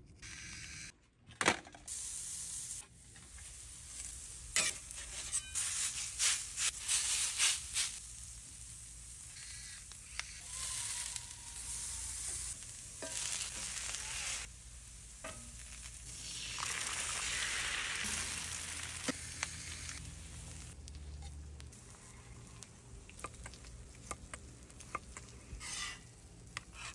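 Food sizzling on a hot flat-top griddle, with the scrapes and taps of a metal spatula. The sound shifts in level at several cuts.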